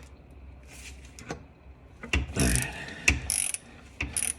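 Hand socket ratchet clicking in short bursts, with a few small metallic knocks, as a nut on the starter's wiring is turned; the loudest bursts come about two seconds in and just after three seconds.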